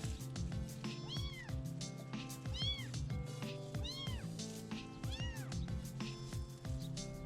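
A kitten meowing four times, high-pitched calls that each rise and fall in pitch, over background music with a steady beat.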